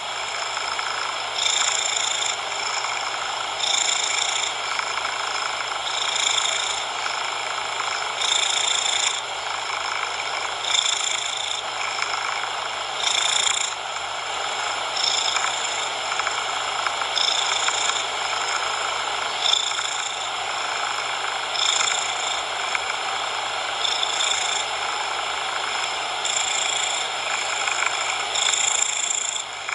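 A cat purring, each swell of the purr coming about every two seconds, mixed with steady coloured noise.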